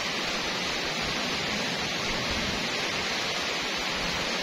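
Steady rain falling on a wet paved lane and the surrounding trees: an even, unbroken hiss of drops with no single strokes standing out.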